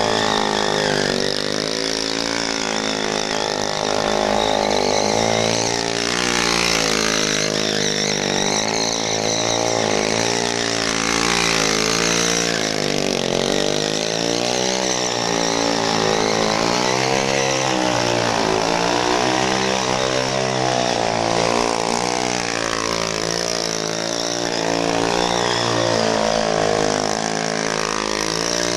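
A small motorcycle engine revving hard and falling back again and again during stunt burnouts and drifts. The pitch swings up and down every couple of seconds, over a steady hiss.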